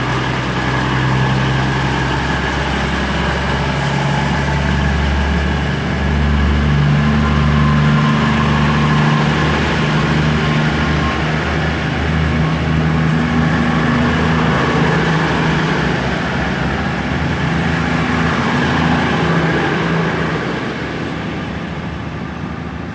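Diesel train engines running loud and steady, the low engine note shifting in pitch, then fading away near the end as the train moves off.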